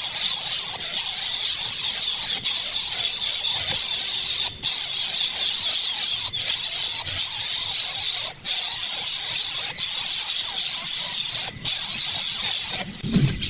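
Steady, dense chorus of insects, with one insect's regular pulsing trill running through it.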